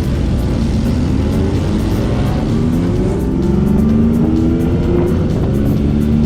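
Motorcycle engine running under way, its pitch rising as it accelerates from about two seconds in, with music playing over it.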